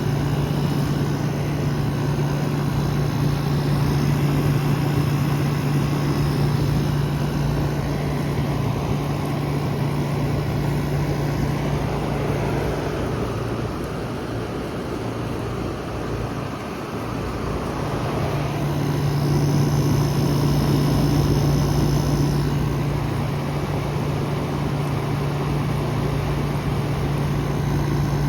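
Air conditioning unit running steadily: a low electrical hum from the compressor over the whoosh of its fan. The hum fades for several seconds partway through, then comes back.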